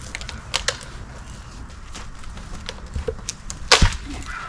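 Scattered wooden knocks and clicks of split oak firewood being handled, with one loud sharp knock near the end.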